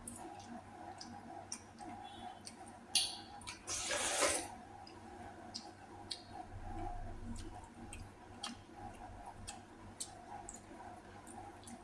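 Eating sounds at a meal: chewing, with scattered small clicks of utensils against dishes and two brief louder noisy sounds about three and four seconds in.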